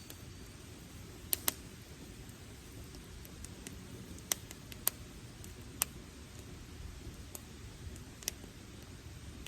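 Wood campfire crackling: irregular sharp pops and ticks of burning branches, about half a dozen louder snaps among them, over a steady low rumble.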